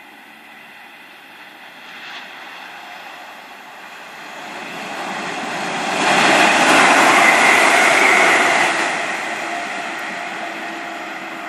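A train passing through at speed: its noise swells from about four seconds in, is loudest for about three seconds with a faint high whine on top, then fades away.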